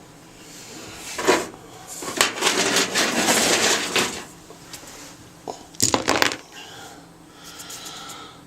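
A sharp knock, then a couple of seconds of gritty scraping and rattling, and another clatter of knocks about six seconds in, as loose chunks of concrete are moved about inside an opened washing machine. The loose concrete is what has been making the machine's racket.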